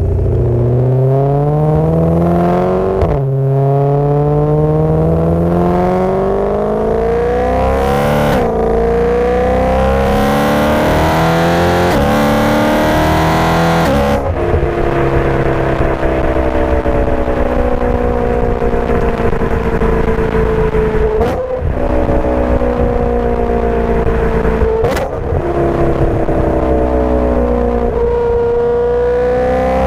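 Supercharged BMW M3 V8 on an Agency Power exhaust, accelerating hard. The engine note climbs and drops sharply at each of several gear changes.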